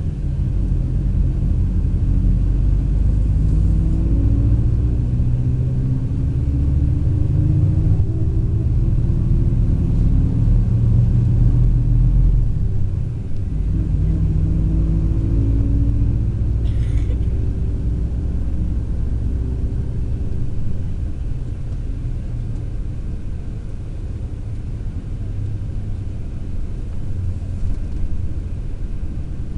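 A long-distance coach's diesel engine running under way, with a deep rumble. Its note climbs and falls as it moves through the gears, and there is a short hiss about halfway through.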